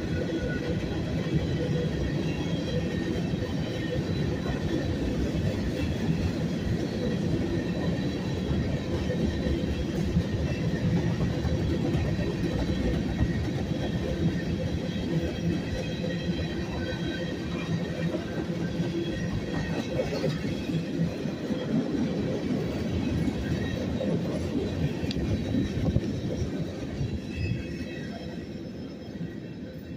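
Freight train's covered hopper cars rolling past: a steady rumble of steel wheels on rail with faint high wheel squeal over it. The sound fades near the end as the last cars go by.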